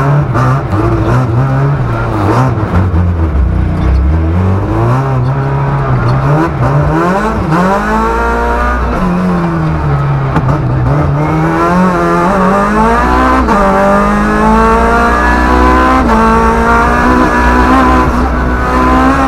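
Rally car engine revving hard, heard from inside the cabin. The revs rise and fall quickly at first, then climb in long pulls, with sudden drops at upshifts twice in the second half.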